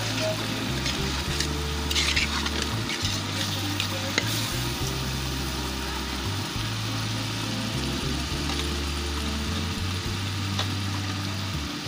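Sliced onions and tomatoes sizzling in hot oil in a pan as a metal spoon stirs them, with a few short scrapes of the spoon against the pan around two and four seconds in.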